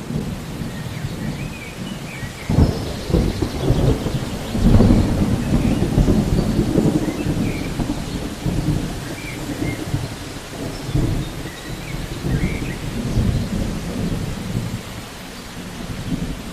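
Thunderstorm: thunder rumbling over steady rain. A sudden crack comes about two and a half seconds in, and the loudest rolling rumble follows a couple of seconds later before it ebbs and swells again.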